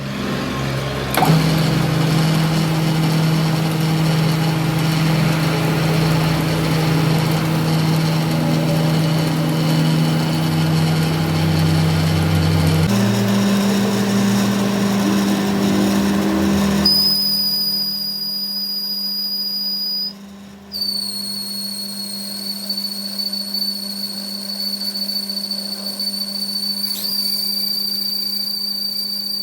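A workshop machine running: a steady low hum under dense machining noise, the hum shifting in pitch partway through. For the last third the noise drops away and a steady high-pitched whine carries on over the hum, breaking off once for a moment.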